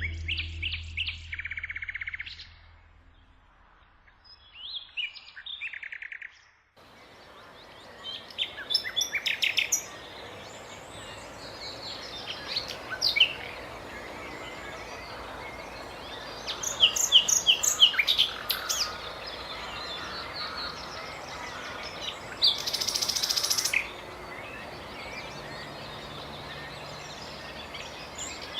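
Nightingale singing: short phrases of rapid repeated high notes, trills and chirps, with pauses between them. A low note dies away in the first few seconds, and from about seven seconds in a steady outdoor background hiss runs under the song.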